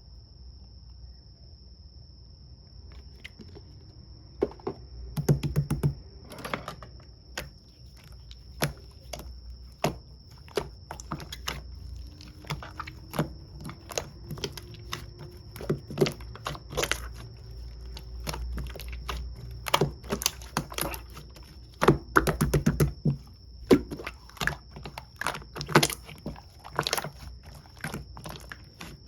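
Mint jelly slime being squished and poked by hand, making irregular sticky clicks and pops, with little clusters of rapid pops at times. A faint, steady high-pitched tone runs underneath.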